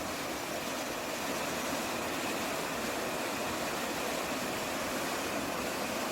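Mountain stream water rushing, a steady, even hiss with no rise or fall.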